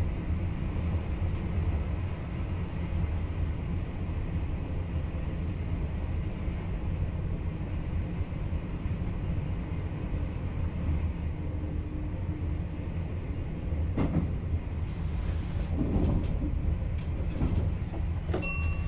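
Running noise of a VIRM double-deck electric train heard inside the driver's cab: a steady low rumble of wheels on rail. A few clicks and knocks come in the last few seconds.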